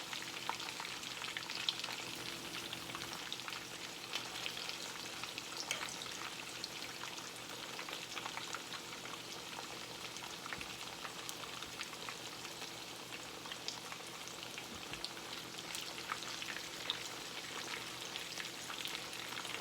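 Breaded chicken breast frying in hot oil: a steady sizzle with scattered small crackles and pops as the crumb coating cooks.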